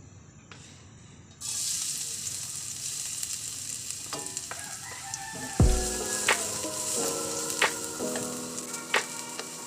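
Food frying in hot oil in a pan, a steady sizzle that starts suddenly about a second and a half in.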